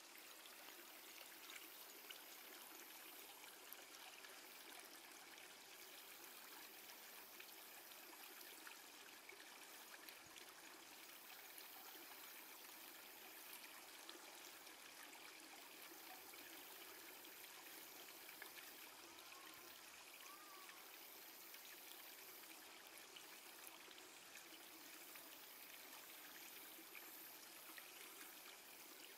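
Faint, steady running water of a stream, with two faint short chirps about two-thirds of the way through.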